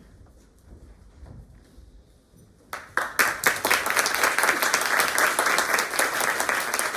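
Low room noise, then an audience breaks into applause about three seconds in, many hands clapping steadily.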